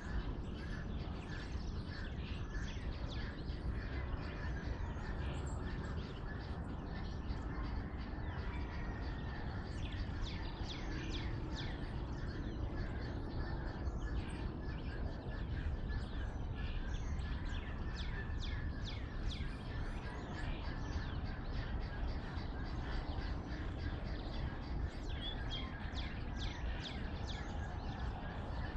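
Dawn chorus of many birds chirping and calling in quick, overlapping short notes, busiest in the middle stretch, over a steady low rumble.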